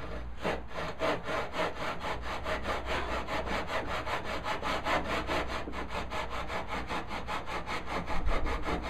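Hand saw cutting into a walnut board along a knife wall, starting the side of a dado, in quick, even back-and-forth strokes.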